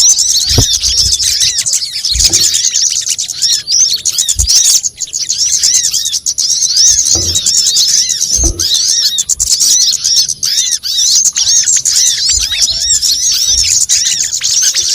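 Bird-lure recording: a dense, unbroken chorus of high, quick chirping calls from many small birds, with a few soft low thumps scattered through it.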